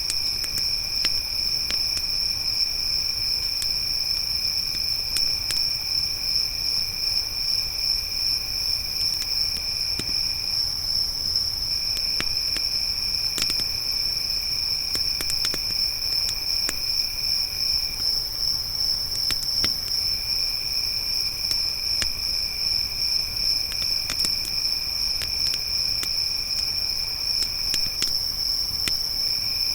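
Crickets trilling steadily in a high, continuous pulse, with a second, lower-pitched insect trill that breaks off and resumes about three times. Sparse sharp crackles and pops from a wood campfire sound through it.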